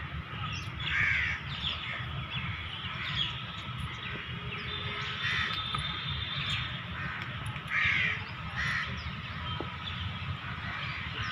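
Bird calls, harsh and repeated several times at irregular intervals, over a steady low background rumble.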